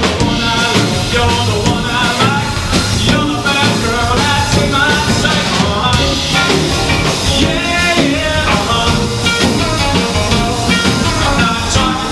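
Live rock and roll band music playing with a singer, in a rockabilly style.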